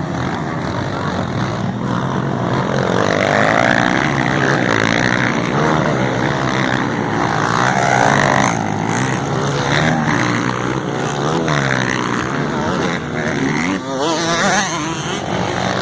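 Several motocross bikes racing, their engines revving up and down and overlapping, with pitch rising and falling as they accelerate and shift.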